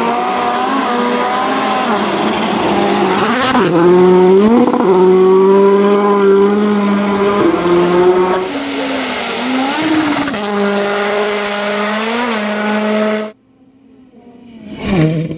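Rally car engine running at high revs, its pitch dropping and jumping back several times as it shifts gear, then cutting off abruptly. Near the end another rally car's engine swells up briefly.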